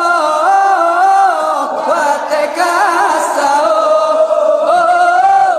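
Voices chanting a Ramadan sahur wake-up song in Acehnese, drawing out long wavering notes.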